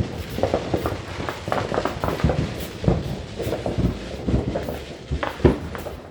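Fireworks going off in a rapid, irregular string of bangs and pops over steady crackling, with the loudest bang about five and a half seconds in.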